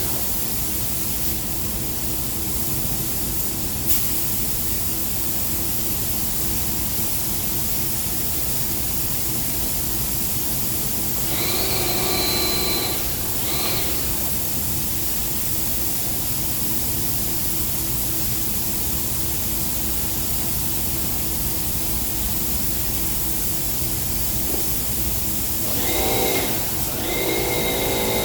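Spray-painting equipment running: a steady hiss over a constant low hum, with a higher whine joining twice, briefly in the middle and again near the end.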